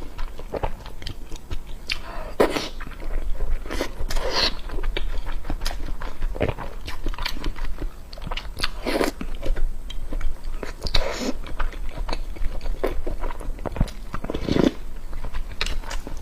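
Close-miked chewing and biting: a person eating, with a steady run of wet mouth clicks and a louder smacking or sucking sound every two seconds or so.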